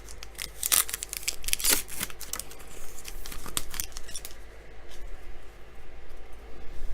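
Trading cards and a foil pack wrapper being handled: a quick run of crinkles, scrapes and card slides, with a few longer, sharper slides about one and two seconds in.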